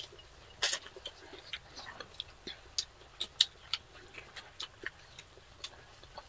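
Close-miked eating sounds: wet chewing and mouth smacks, heard as a string of sharp, irregular clicks about two or three a second.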